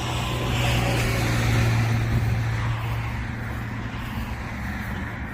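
A motor vehicle running, with a steady low hum and a swell of road noise that peaks about a second and a half in and then slowly fades.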